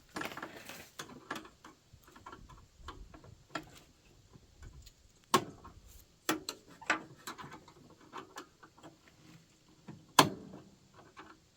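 Irregular metallic clicks, taps and scrapes of a screwdriver working at a stuck cotter pin in a lawn mower's steel deck-bar linkage, with two louder knocks about halfway and near the end.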